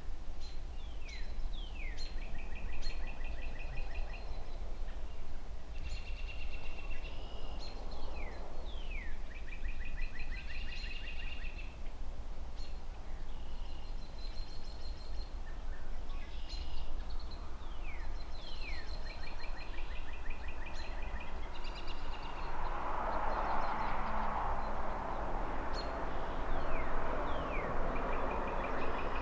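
A songbird repeats a short song of quick falling whistles followed by a fast trill, again and again every few seconds, over a steady low rumble of distant city traffic. About two-thirds of the way in, a rushing noise swells up and holds to the end.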